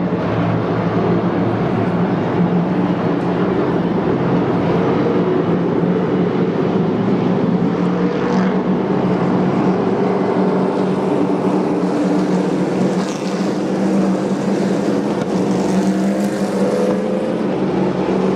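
Engines of several racing pickup trucks running at speed around an oval track, a continuous loud drone whose pitch rises and falls slightly as the trucks pass.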